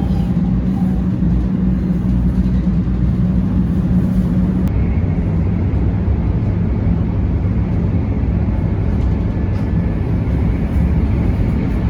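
Steady rumble of a Shinkansen bullet train running at speed, heard inside the carriage. Its low hum eases about five seconds in.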